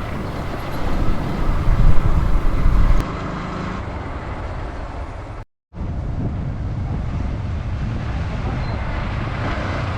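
Motorcycle engine and road and wind noise while riding. The rumble is louder for the first three seconds, and the sound drops out completely for a moment about five and a half seconds in.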